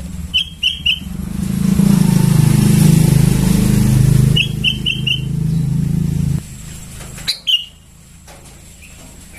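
Young sooty-headed bulbul (kutilang) calling in short chirps, three in quick succession at the start, another quick run of three or four in the middle and a single one near the end. A motor vehicle engine runs close by through the middle as the loudest sound, then stops suddenly about six and a half seconds in.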